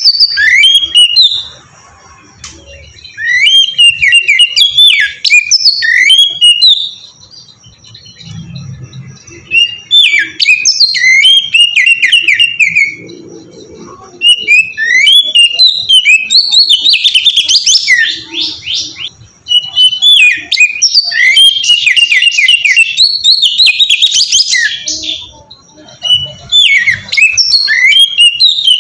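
Oriental magpie-robin singing loudly in varied bursts of sweeping whistles and rapid trills, broken by brief pauses of a second or two.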